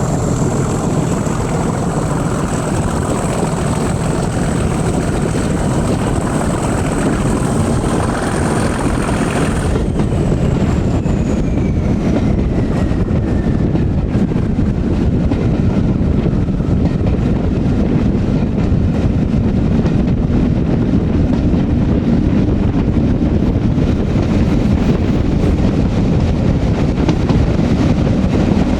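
Class 37 diesel locomotive 37667, heard from the train behind it: a steady rumble of its English Electric V12 engine and the running train. A high turbocharger whistle over it slides down in pitch from about ten seconds in.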